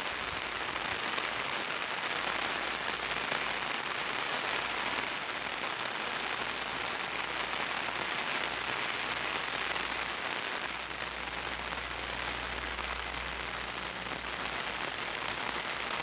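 Steady monsoon rain falling on wet ground, puddles and brick, an even hiss.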